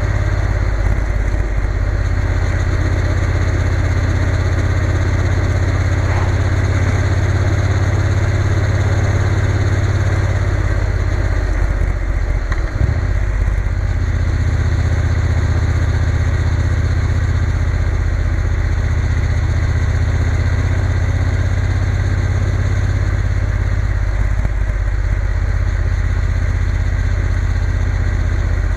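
Triumph Bonneville T120's parallel-twin engine running steadily under way. The engine note dips briefly about twelve seconds in.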